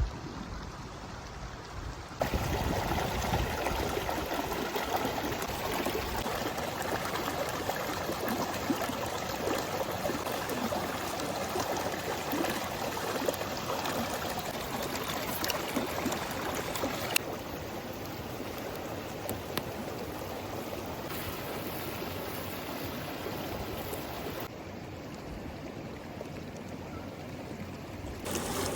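Steady rush of running water, with abrupt shifts in level about two seconds in and again twice later on.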